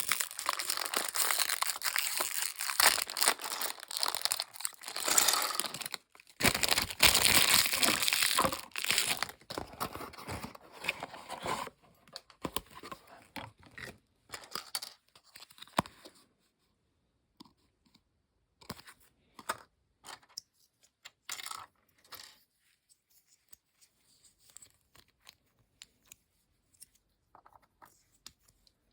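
Plastic packaging of a snap-together model kit being crinkled and torn open for about the first twelve seconds, followed by scattered light clicks and taps of small plastic pieces being handled.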